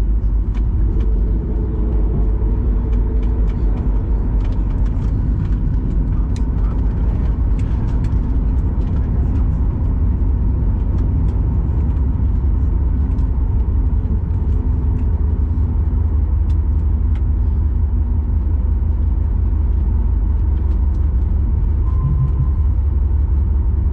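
Cabin noise inside a Boeing 737 MAX 8 taxiing after landing: its CFM LEAP-1B engines running at low power over a steady low rumble of the aircraft rolling, with scattered faint clicks and rattles.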